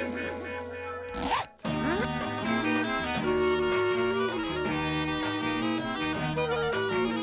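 Cartoon sound effect: a quick rising swoosh about a second in, a brief moment of silence, then cartoon score music playing a melody on instruments.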